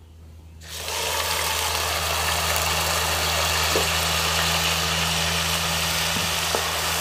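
Ground masala paste hitting hot oil and cumin in a pan: a sudden loud sizzle starts just under a second in and then runs on steadily. A steady low hum sits underneath.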